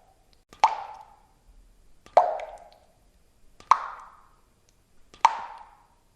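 Water drops falling one at a time into water, four distinct plops about one and a half seconds apart, each with a short pitched ring that quickly dies away.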